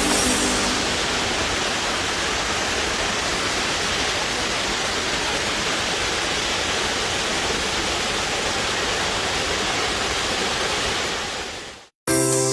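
Waterfall: a steady rush of falling water that fades out to silence near the end.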